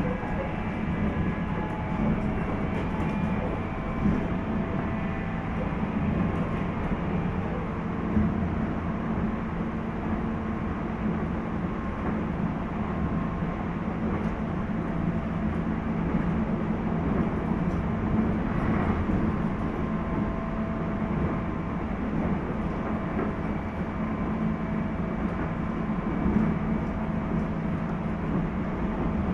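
Steady running noise of a 719 series electric train, heard inside car KuMoHa 719-1 as it runs along the line, with a constant low hum. The car is one the uploader suspects of making an unusual noise.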